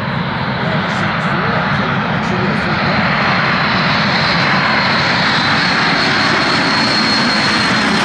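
Aircraft engine noise that builds gradually and then holds steady, with a thin high whine over it from about three seconds in.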